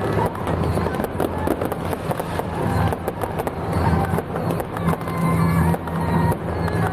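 Fireworks crackling in rapid, irregular pops and cracks, with a steady low hum underneath.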